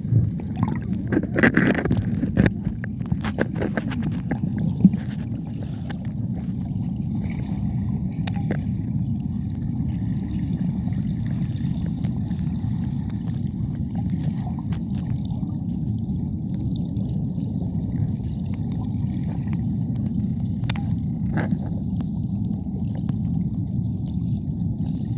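Steady, low rush of river water at a waterfall, with scattered clicks and knocks during the first five seconds.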